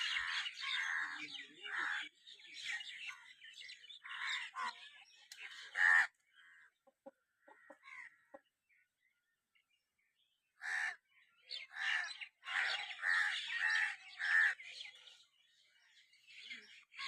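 Birds calling in many short repeated calls, with a near-silent pause of about two seconds in the middle.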